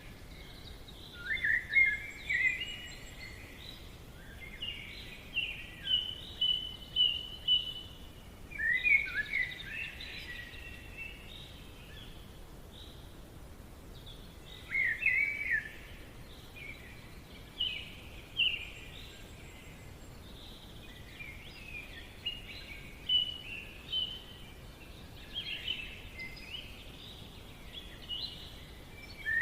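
Forest birds singing: bursts of quick chirping, warbling phrases every few seconds with short gaps between, over a faint steady background hiss.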